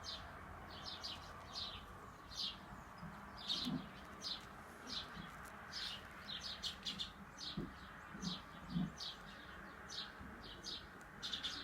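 Small birds chirping over and over, short high chirps in irregular runs, with a few faint soft low thuds.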